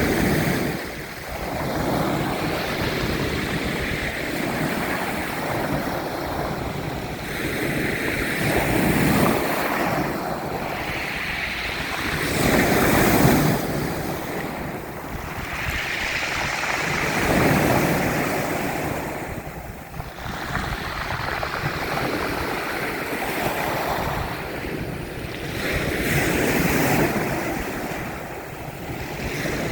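Ocean waves breaking and washing in, a continuous surf noise that swells and ebbs every few seconds, with wind on the microphone.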